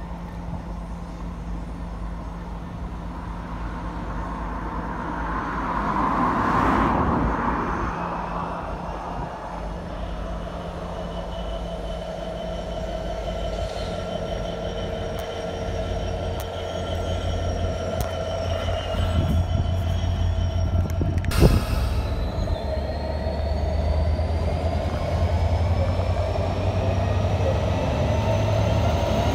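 GBRf Class 66 diesel locomotive with its EMD two-stroke engine hauling a train of hopper wagons past at low speed, the engine drone growing louder as it nears. The wheels squeal on the curving track, and there is one sharp clank about twenty seconds in.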